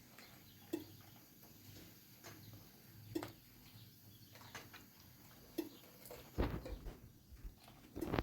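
Scattered light knocks and clicks every second or two, with a short cluster of low thumps about six and a half seconds in.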